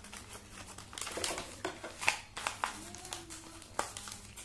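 Packaging being handled and unwrapped: irregular crinkling and crackling with small clicks as the wrapping comes off a toy shock gun.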